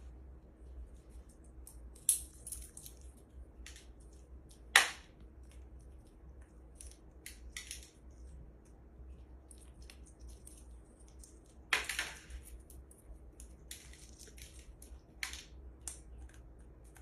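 Parrot cracking a pistachio shell in its beak and eating the nut: irregular sharp cracks and crunches, the loudest about two, five and twelve seconds in.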